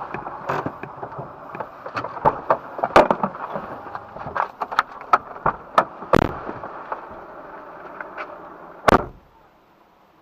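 Firecrackers going off in an irregular string of sharp bangs and pops over a steady background noise. A last loud bang comes near the end.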